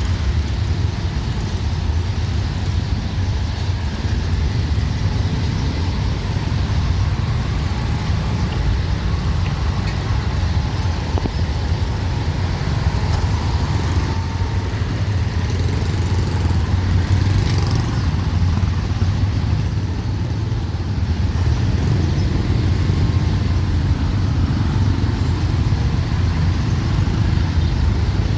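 Steady rumble of dense city rush-hour traffic: motorbikes, cars and tuk-tuks running together.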